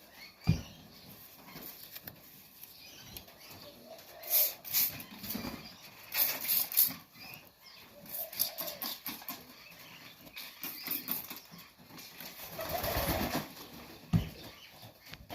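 Young highflyer pigeon flapping its wings in several short bouts while held, with a sharp thump near the end.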